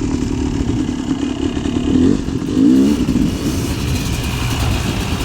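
Yamaha YZ250 two-stroke single-cylinder dirt bike engine running under way. Its pitch rises and falls as the throttle is worked, with revs climbing louder about two to three seconds in.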